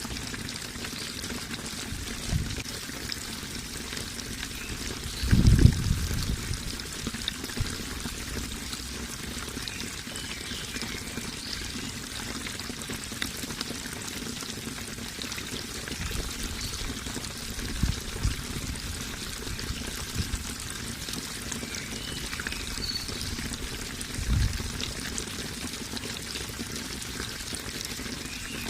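Running water pouring and trickling steadily, with a few brief low thumps, the strongest about five seconds in.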